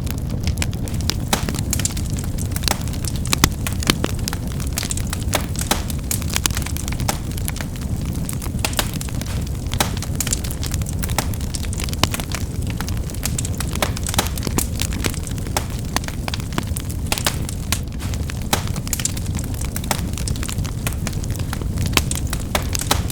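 Wood fire crackling: a steady low rumble of flame with many irregular sharp pops and snaps.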